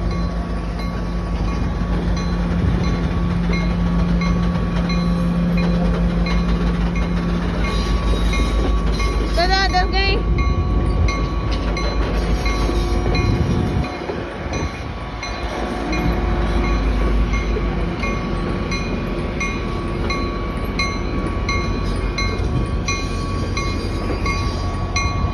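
A train of passenger coaches rolling past close by at low speed, its wheels making a steady rumble on the rails with a steady hum over it.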